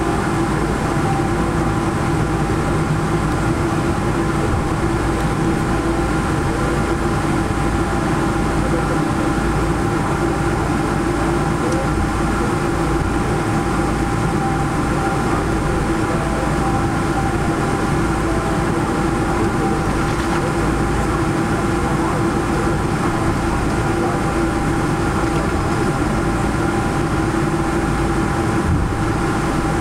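Steady cabin noise inside a Boeing 777-300 after landing: a low rumble and air rush from the engines and air-conditioning, with several steady held tones over it.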